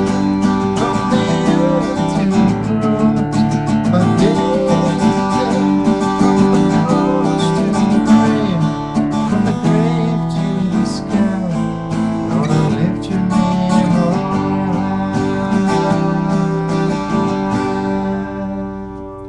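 Strummed acoustic guitar music, steady and full, fading down near the end.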